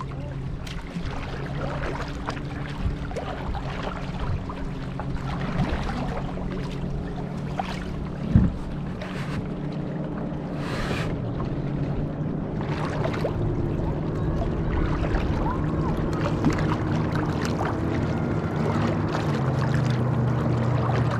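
Kayak being turned and paddled on a lake: paddle strokes splashing in the water every second or two, over a steady low engine hum. A single knock about 8 seconds in.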